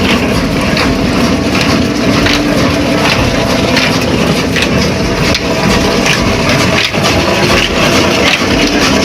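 Big old desi diesel engine running loudly and steadily, with a dense, rapid knocking clatter over its hum.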